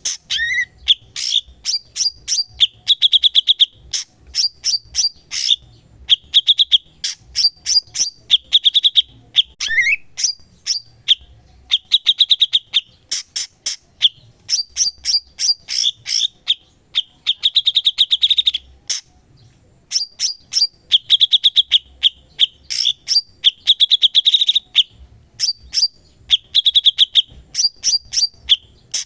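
Cucak cungkok songbird singing continuously: fast runs of sharp, high notes alternating with short rattling trills, the same phrases repeated over and over, with a brief lull about two-thirds of the way through.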